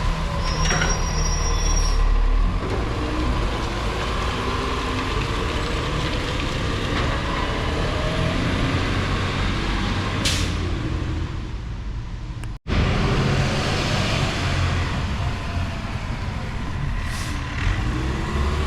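Garbage truck's diesel engine running, its pitch rising and falling, with two short air-brake hisses about ten and seventeen seconds in. The sound drops out for an instant a little after the middle.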